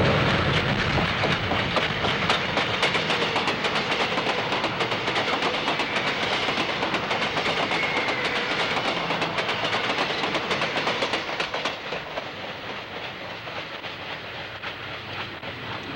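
Freight train cars rolling on the rails: a steady rattle and clatter of wheels and car bodies that eases off somewhat in the last few seconds.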